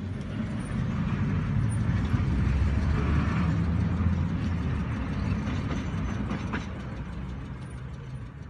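Motor vehicle engine and road noise: a steady low drone that starts suddenly, grows louder over the first couple of seconds, then slowly eases off.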